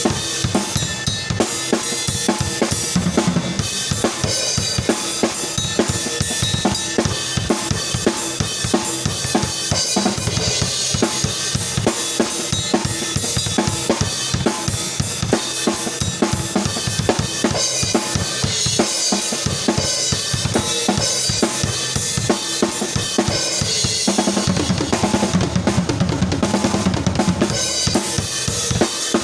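Isolated drum-kit track: kick drum, snare and cymbals playing a steady groove. About 24 seconds in the playing gets fuller and heavier in the low end for a few seconds.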